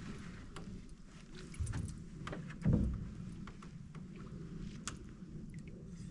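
Canoe paddling sounds: two low thuds from the paddle and hull, about one and a half and two and a half seconds in, among scattered light clicks and creaks.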